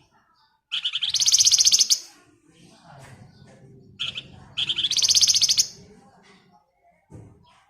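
Flamboyan songbird singing two loud, rapid trilling phrases about three seconds apart, each opened by a short note, with a low rumble in the background.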